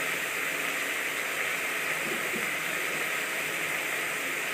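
Chopped tomatoes frying in mustard oil in a kadai, with a steady, even sizzle.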